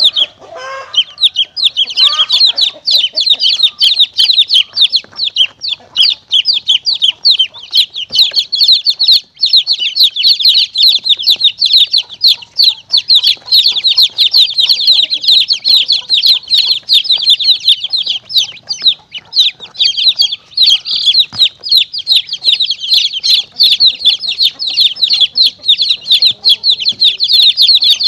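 A crowd of baby chicks peeping nonstop in rapid, high-pitched calls, with some lower clucking in the first few seconds. It is a chick-distress caller sound used to lure monitor lizards and mongooses.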